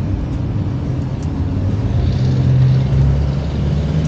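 Kawasaki Ninja 650's parallel-twin engine running, its pitch rising about two seconds in as it speeds up, then holding steady.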